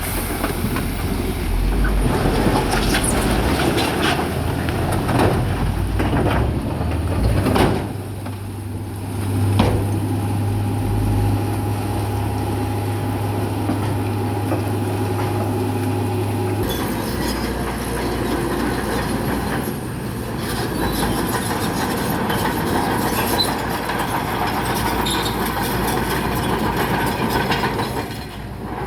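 Bulldozer's diesel engine running steadily, with clanking from its steel tracks and knocks as it pushes rock. There are several sharp knocks in the first eight seconds, and the sound changes abruptly about two-thirds of the way in.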